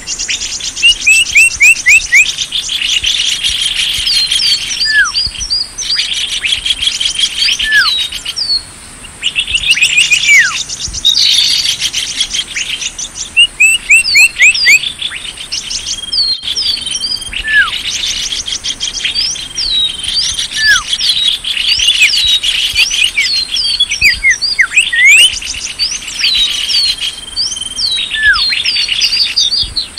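Dense, unbroken chirping and twittering of many small songbirds, with fast trills and a short falling whistle that recurs every few seconds. It is a bird-lure (pikat) call track, played to draw small birds in.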